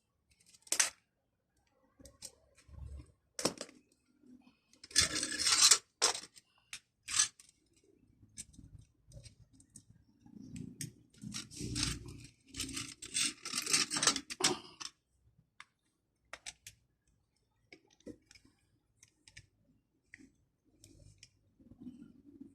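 Hand tools and metal parts being handled during work on a manual car window regulator: scattered clicks and clinks with two spells of scraping and rattling, the loudest about five seconds in and a longer one from about eleven to fifteen seconds.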